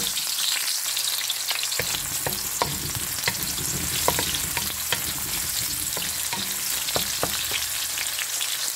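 Sliced ginger and red onions sizzling in hot vegetable oil in a metal wok: a steady frying hiss with scattered light taps and scrapes of a wooden spatula stirring them.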